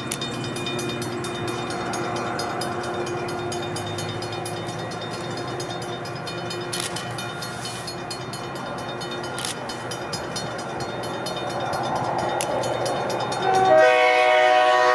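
A train passing with steady rumbling running noise. Near the end a loud train whistle starts suddenly, a held chord of several notes.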